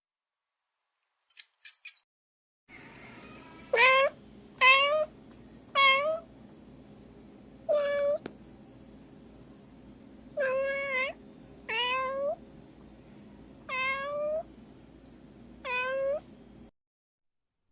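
Domestic cat meowing: eight short meows, one to two seconds apart, over a steady background hum. A couple of brief high chirps come just before them.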